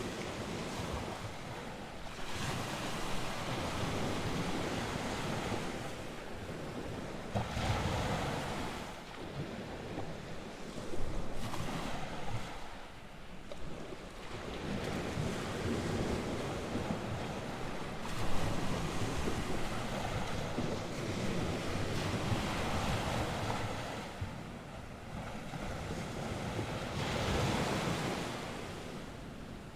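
North Sea waves breaking and washing up the shore, the surf swelling and ebbing every few seconds, with wind blowing across the microphone.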